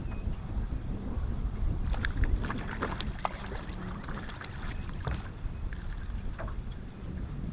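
Low wind rumble on the microphone and water noise around a small fishing boat, with a cluster of light clicks and knocks about two to three and a half seconds in.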